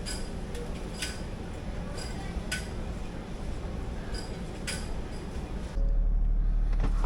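Light metallic clinks of tools and hardware, several at uneven intervals over the first six seconds. About six seconds in, the sound switches abruptly to a louder, steady low rumble.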